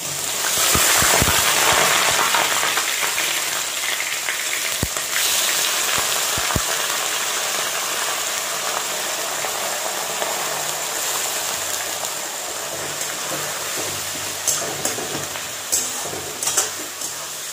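Onion paste dropped into hot mustard oil in a kadai: a sudden loud sizzle that settles into steady frying. A few light clicks of the metal spatula against the pan come through, more of them near the end.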